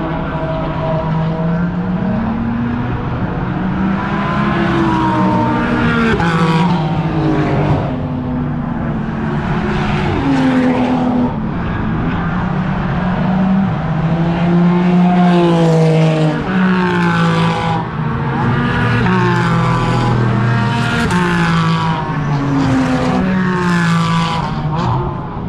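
Race car engines running on the circuit, their note rising and falling again and again as the cars accelerate and back off.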